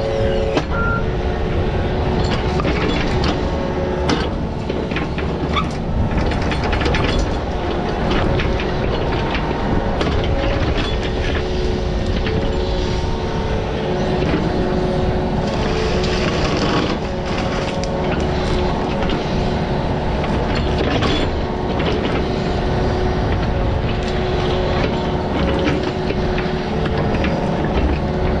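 Diesel digging machine running steadily under load, with a held mechanical whine and frequent metal clanks and knocks, typical of a bucket working in rocky soil.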